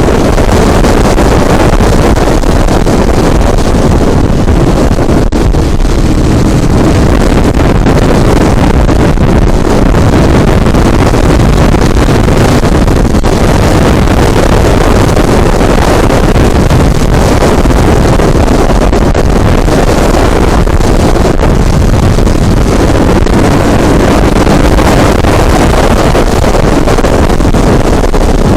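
Loud, steady wind rumble on the microphone while riding a scooter, with the ride's road and motor noise blended in beneath it.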